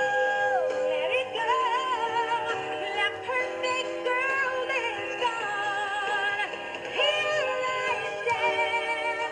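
A singing Elsa doll playing its built-in song through its small speaker: a female voice singing in English, like the cartoon, over backing music, very loud.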